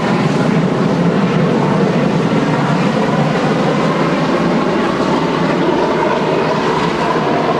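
Train running on the line, a loud, steady rumbling rush of noise with no clear beat.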